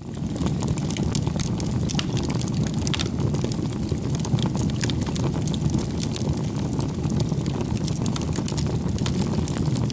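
Bonfire burning: a steady low rumble of flames with many small sharp crackles and pops scattered through it.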